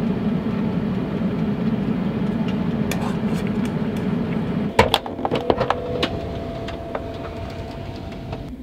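Steady hum of a small air fryer's fan running while it cooks, with a few sharp clinks and knocks about five seconds in, one of them ringing briefly.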